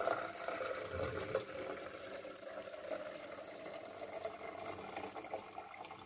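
Water running steadily into the water tank of a capsule coffee machine as it is filled, stopping at about six seconds.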